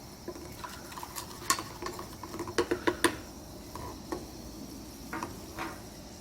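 A utensil stirring a flour-and-oil gravy paste (roux) in a pan, with irregular clicks and scrapes against the pan and a light sizzle underneath. The clicks come thickest a little before the middle.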